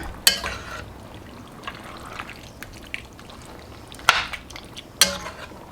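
A metal spoon knocking against the pot three times while working through wet chili, with soft liquid stirring sounds between the knocks.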